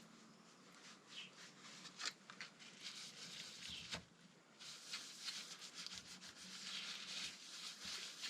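Faint rubbing of a rag wiping excess oil off a metal engine part, in irregular short strokes that grow denser about halfway through.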